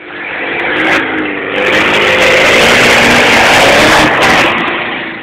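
ARO off-road vehicle's engine revving hard, loud, with a wavering pitch. It starts suddenly and swells over the first second or so.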